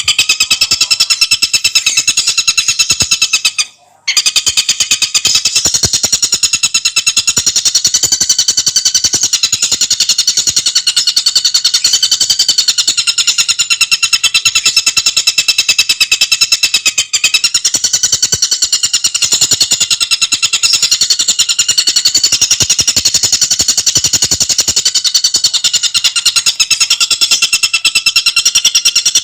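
Tengkek buto bird calling in a long, fast, rattling trill of very rapid even pulses, high-pitched and loud, broken only by a brief pause about four seconds in.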